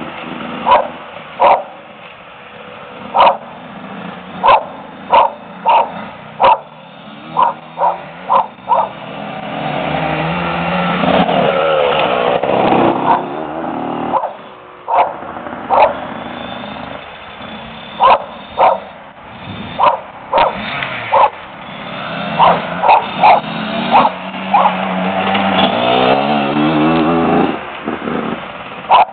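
A dog barking again and again in short, sharp barks, the loudest sound, over small dirt bike engines that rise and fall in pitch and loudness as the bikes circle, swelling twice.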